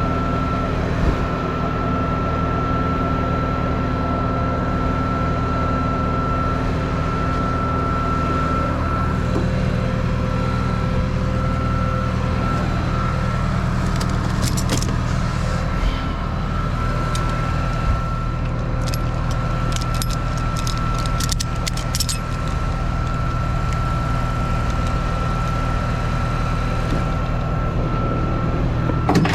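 Truck engine running steadily, with a constant high whine above the engine note. Scattered metallic clicks and rattles come in about halfway through.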